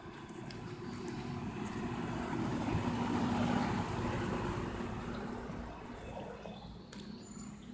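Engine hum of a passing motor vehicle, growing louder to a peak midway and then fading away.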